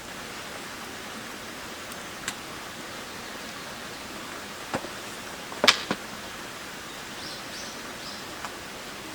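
Steady hiss of drizzle and wind in a forest, with a handful of short sharp knocks and clicks scattered through it; the loudest comes a little past halfway, followed closely by a smaller one.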